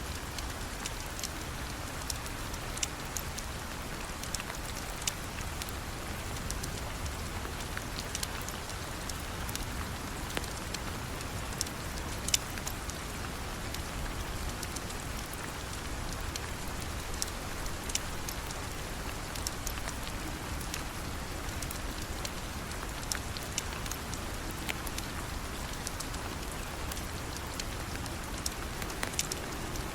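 Steady rain falling, with scattered sharp ticks and pops over the top.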